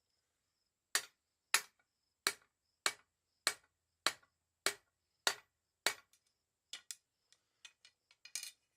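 Hand hammer striking half-inch mild steel round bar on an anvil during forging: nine evenly spaced blows about 0.6 s apart, then a few lighter, quicker taps near the end.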